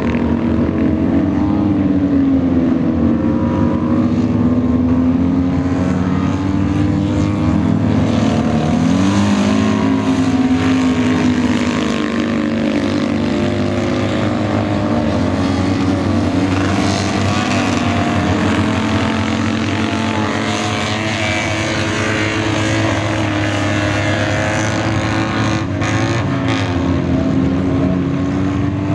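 Several Citroën 2CV air-cooled flat-twin engines racing at high revs, their notes overlapping and rising and falling as the cars accelerate, lift off and pick up again.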